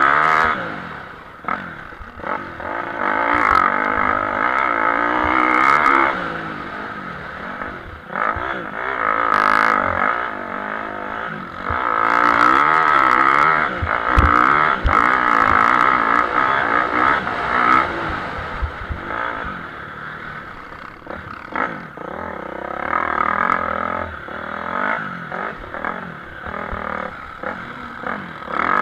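Motocross motorcycles racing: their engines rev hard and ease off again and again, getting louder and fainter as the bikes come and go.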